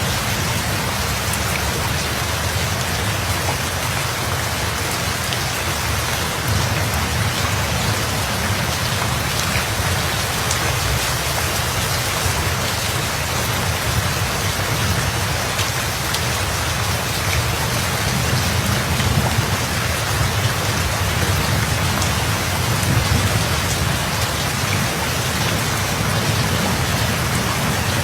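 Steady heavy rain falling, a dense even hiss, with a low rumble of distant thunder that swells a few times.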